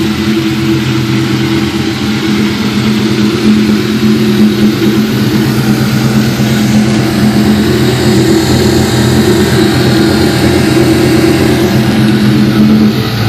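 Idling V8 of a turbocharged 1998 Ford Mustang SVT Cobra, a steady, even rumble at constant speed.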